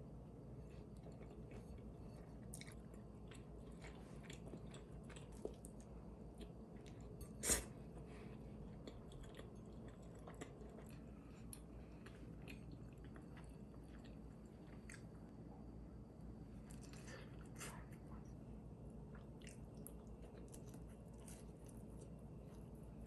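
Faint chewing and biting of a cheese-topped bagel pizza, with scattered soft clicks and one sharp click about seven and a half seconds in, over a low room hum.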